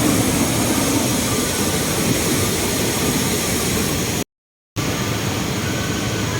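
Steady roar of a waterfall: a loud, even rush of falling water, broken by a sudden short dropout about four seconds in.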